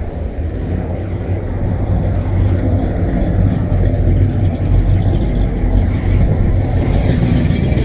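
Car engine running, a steady deep low rumble.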